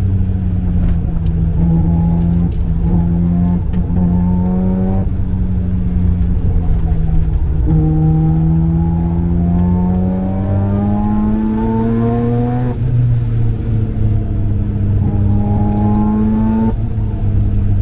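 Mazda RX-7 FD3S's turbocharged 13B rotary engine pulling hard on track. Its pitch climbs steadily in each gear and falls back at the upshifts, three times, over a steady deep drone.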